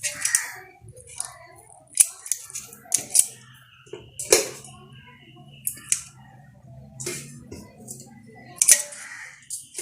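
Irregular clicks and clinks of a metal utensil against a cooking pot as fried chicken pieces are set on top of cooked rice, with a few sharper knocks and a low steady hum underneath.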